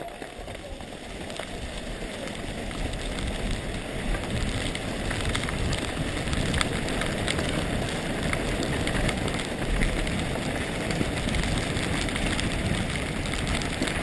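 Mountain bike descending a rough downhill trail at speed: steady wind rush on the microphone and tyre rumble, growing louder over the first two seconds, with scattered sharp knocks and rattles from the bike.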